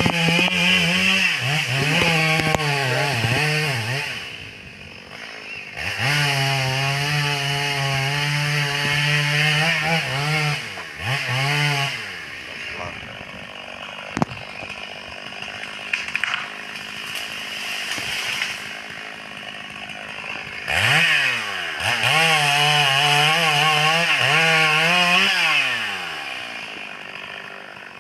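Stihl MS 382 two-stroke chainsaw cutting timber. It revs up to full throttle for several cuts, with long steady pulls in the first half and again near the end. Between cuts it drops back to a low idle.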